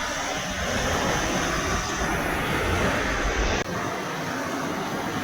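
Steady rush of running river water, with a low rumble underneath that drops away sharply about three and a half seconds in.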